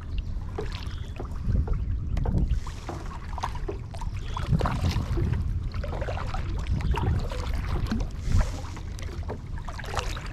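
Water splashing and lapping around a kayak in small irregular splashes and ticks, with wind rumbling on the microphone.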